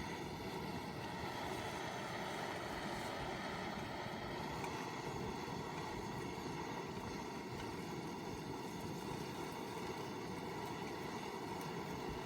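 Wood fire burning in a home-made secondary-combustion fire pit, a steady rushing sound with a few faint crackles.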